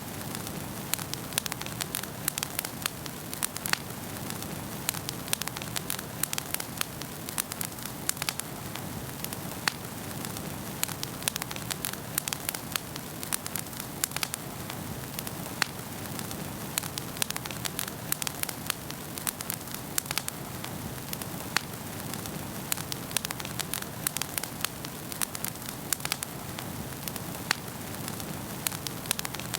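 Wood fire burning in a fireplace: a steady low rush of flames with many sharp, irregular crackles and pops throughout.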